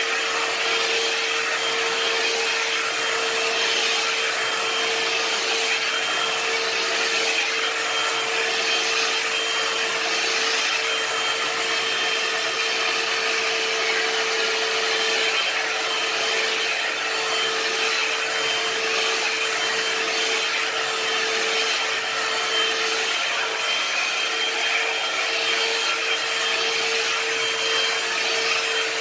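One-step hair dryer and styler (a hot-air brush) running steadily on its high setting, a constant whine over a rush of air, as the brush is drawn slowly through thick hair.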